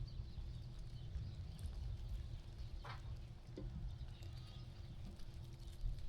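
Quiet sheep-pen ambience: a steady low rumble under faint scattered knocks and rustles of sheep walking and grazing, with one short sharp sound about three seconds in.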